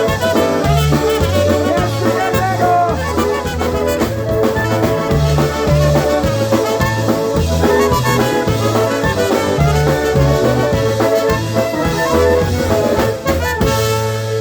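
A polka band plays an instrumental passage: brass carries the melody over a steady oom-pah bass. Near the end it holds a final chord.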